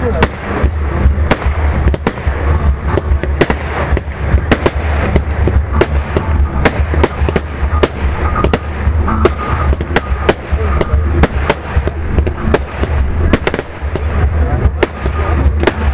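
Fireworks display: an irregular run of sharp bangs and pops from bursting shells, two or three a second, over a steady low rumble.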